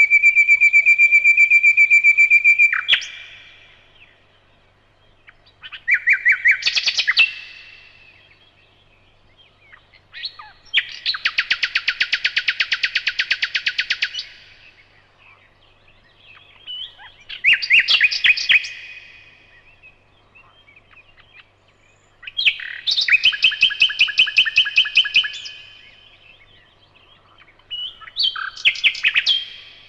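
Nightingale singing: six separate phrases a few seconds apart, made of rapid runs of repeated notes and fast trills, each phrase lasting one to three seconds.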